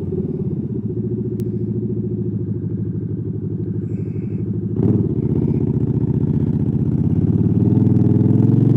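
Motorcycle engine and exhaust running while riding, with a short sharp click about five seconds in, then getting louder as the bike speeds up near the end.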